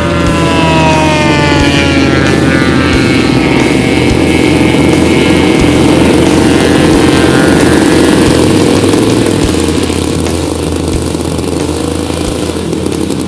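Radio-controlled model airplane's propeller engine passing close, its pitch dropping in the first couple of seconds, then running loud and steady before fading near the end.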